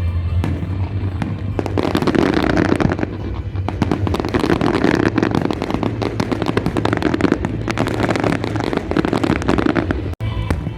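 Fireworks crackling and popping in a dense barrage, many sharp reports in quick succession, over show music with a steady bass line.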